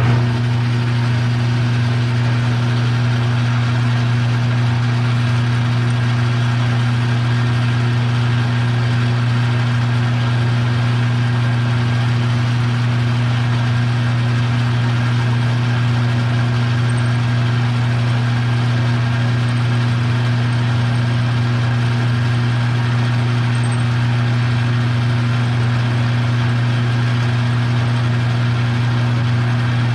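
An electric machine tool switches on and runs at a steady hum, with a strong low drone and even overtones and no change in speed.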